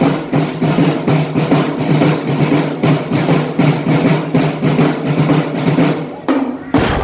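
Marching drum band beating a fast, dense drum pattern of many quick strokes. The drumming drops away briefly near the end and comes back in with a strong hit.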